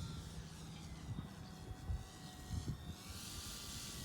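Radio-controlled Decathlon model plane's motor, a faint thin steady whine, heard through wind buffeting the microphone in gusts.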